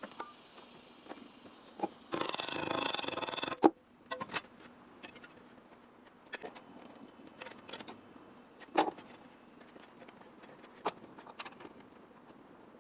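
A burst of hissing lasts about a second and a half and ends in a sharp click. Scattered light clicks and knocks follow. Insects chirr steadily and high-pitched throughout.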